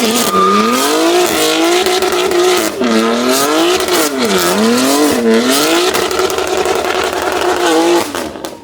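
Car engine revving hard, its pitch rising and falling several times, over a hiss of tyre squeal, as in a burnout; it stops abruptly near the end.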